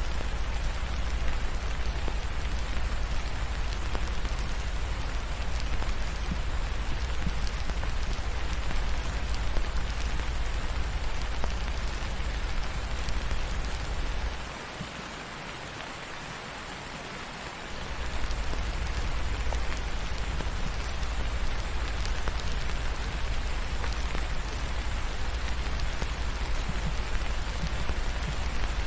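Steady rain falling, an even hiss over a deep low rumble. The rumble cuts out for about three seconds around the middle.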